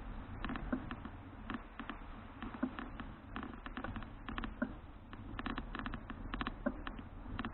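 Irregular clusters of light clicks and rattles from a Citi Cruiser CFH700 folding bicycle being ridden, over a low rumble.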